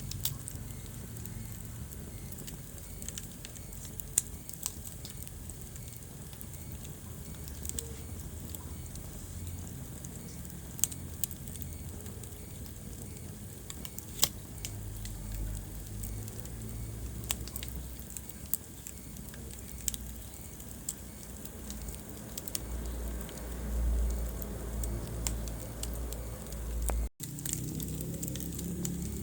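Wood fire crackling in a fireplace: sharp pops and snaps at irregular intervals over the low rumble of the burning logs. Near the end the sound breaks off for an instant.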